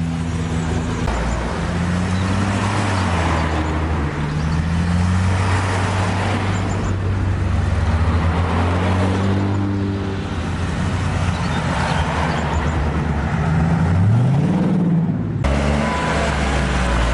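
Classic car engines running as vehicles drive past one after another, the engine note rising and falling, with one engine revving up near the end.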